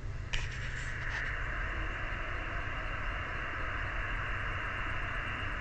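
HF ham radio receiver hiss and static from the transceiver's speaker, switched in with a click about a third of a second in, then a steady, narrow, thin-sounding band of noise between stations' transmissions.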